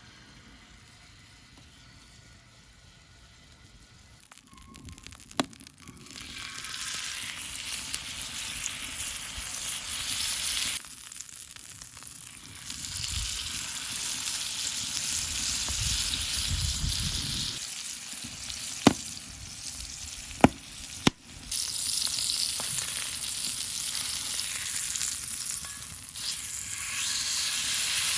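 Food frying in fat on a hot iron plate over a wood fire: a loud, steady sizzle sets in about six seconds in and drops away briefly near the middle. A few sharp clicks sound over it in the second half.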